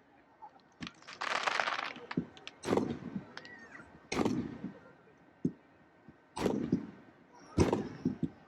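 Fireworks display: about five sharp bangs of aerial shells bursting, each followed by a rolling echo, with a burst of hissing crackle about a second in.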